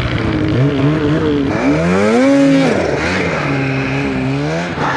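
Turbocharged two-stroke snowmobile engine (2023 Polaris Khaos Boost with an SLP competition exhaust) under varying throttle. It revs up about two seconds in, drops back, then rises again near the end.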